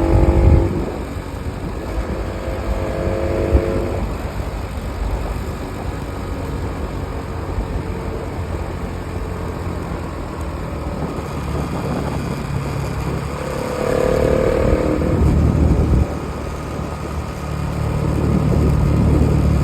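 Bajaj Pulsar NS200 motorcycle's single-cylinder engine running on the move under a steady rushing noise. The engine note rises briefly in a few places: near the start, about 2 to 4 seconds in, and around 14 seconds in.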